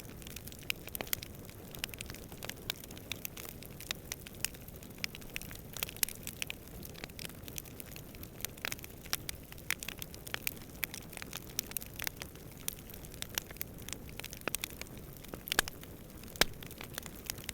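Campfire crackling: irregular sharp pops and snaps, several a second, over a steady low rumble of distant wind.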